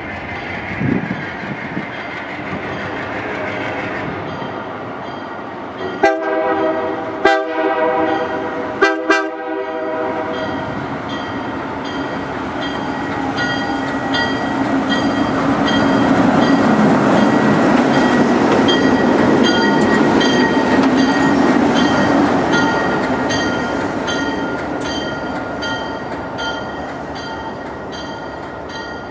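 Train sounding a multi-chime air horn in three or four blasts, then running past with a growing rumble. Its wheels click rhythmically over the rail joints.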